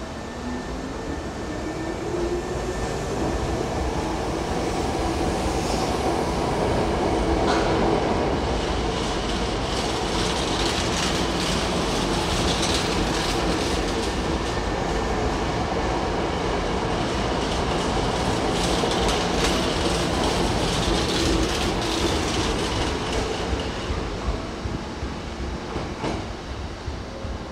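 Hankyu electric train running alongside the platform, with a rising motor whine in the first few seconds and wheels clacking over rail joints. The sound builds, holds, then fades over the last few seconds.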